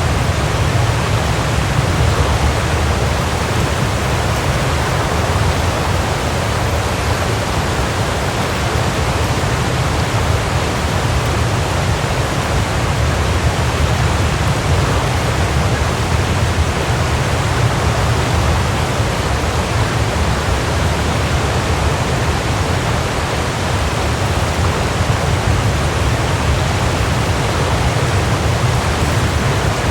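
Waterfall: a steady, dense rush of falling water, strongest in its low rumble and unchanging throughout.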